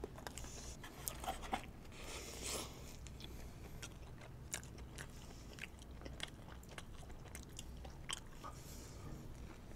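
People chewing and biting into crispy fried-chicken burgers: faint, scattered crunches and lip-smacking over a steady low hum.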